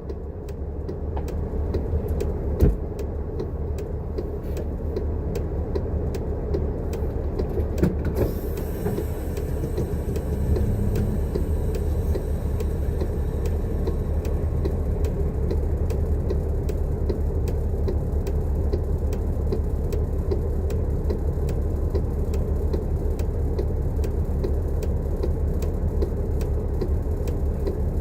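An empty transit bus driving, heard from inside: a steady low engine and road rumble that grows louder over the first ten seconds or so, with frequent small rattles and clicks.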